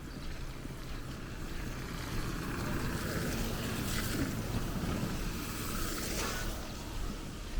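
A vehicle passing along a wet street: a hiss that swells over a few seconds and fades, over low rumble.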